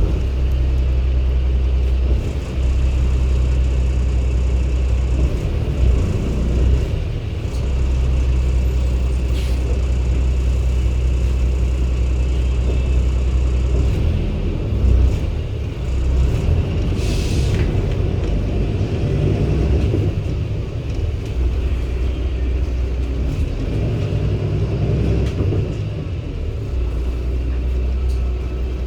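Cummins ISB six-cylinder diesel of a Hyundai New BS090 city bus heard from inside the cabin with the air conditioning off, a steady low drone that settles into an even note in some stretches and shifts as the bus works under way in others. A short air hiss comes about 17 seconds in.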